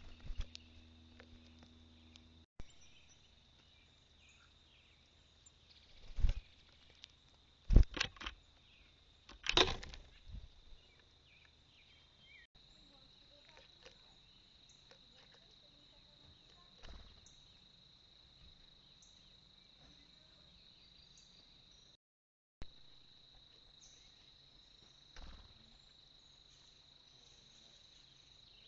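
Outdoor insect drone, a steady high-pitched buzz, with a few loud knocks about six to ten seconds in. The sound cuts out for half a second past the middle.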